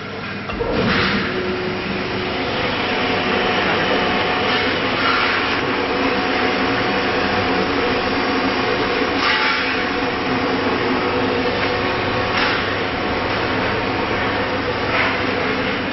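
Vacuum pump of a CNC router's vacuum table starting about half a second in and running steadily as a loud hum, with a few brief louder rushes of noise.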